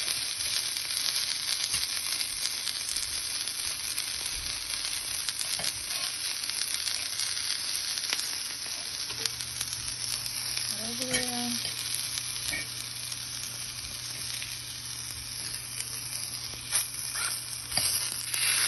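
Shishito peppers and portobello mushroom caps sizzling in hot oil in a cast iron pan: a steady hiss with frequent small pops as the pepper skins blister. Near the end come a few louder knocks as tongs turn the peppers in the pan.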